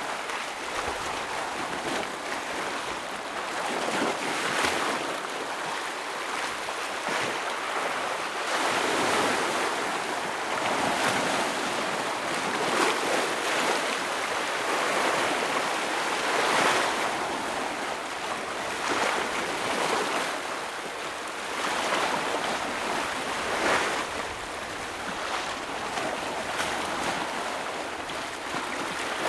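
Ocean waves breaking on rocks, a continuous wash of surf that swells and eases every few seconds.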